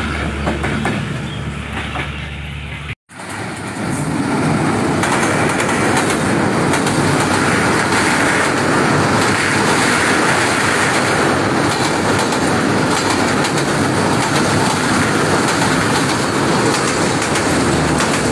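Diesel-hauled express trains passing at speed close to the track. First a locomotive goes by with a low steady engine hum under the wheel noise. After a cut about three seconds in, a second train's coaches rush past with loud, steady wheel-on-rail noise.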